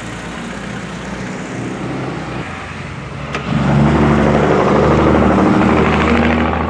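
Chevy's four-cylinder petrol engine idling steadily, just refilled with oil after its oil-pump strainer was cleaned; the owner judges it to be running and sounding very well. A click a little over three seconds in, after which the idle grows louder.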